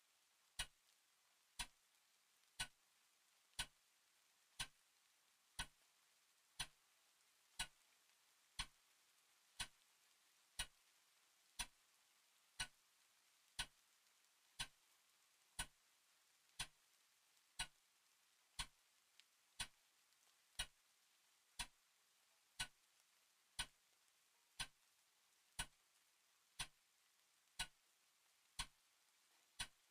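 Clock ticking slowly and evenly, one sharp tick about every second, over a faint steady hiss.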